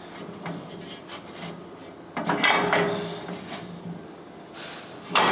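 Light knocks, then a scraping rub about two seconds in that lasts about a second, and a sharper scrape or knock near the end: parts or tools being handled and dragged during shop work.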